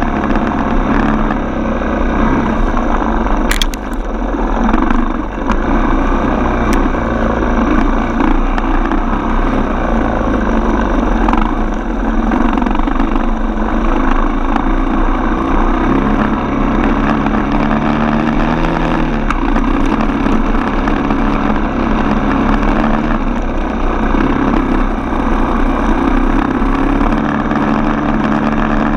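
Single-cylinder four-stroke dirt bike engine running under way, its pitch stepping up and down with throttle and gear changes. A sharp click about three and a half seconds in.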